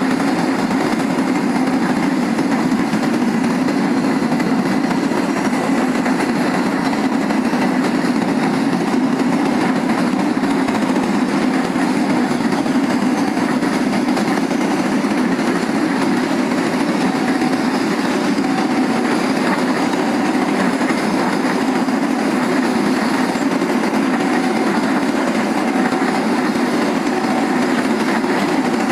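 A train rolling past close by: a steady, unbroken rumble of wagon wheels running on the rails.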